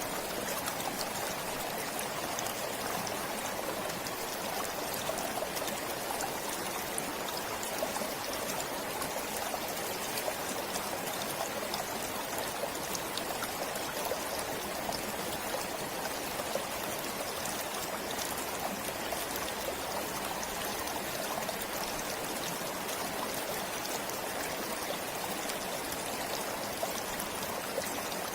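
Forest stream flowing steadily over stones, an even rushing with fine trickling and splashing.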